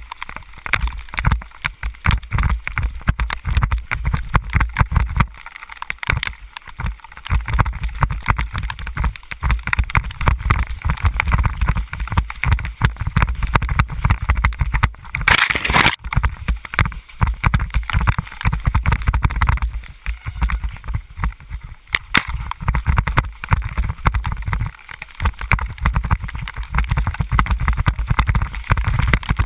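Wind buffeting the microphone on a moving ride in the rain, a rapid fluttering rumble under a rushing, watery hiss of wet road, with a brief louder gush about halfway.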